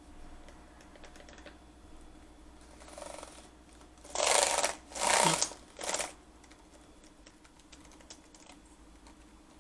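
Light tapping of keys on a freshly replaced Lenovo B575 laptop keyboard, with three short loud rushing noises close together in the middle.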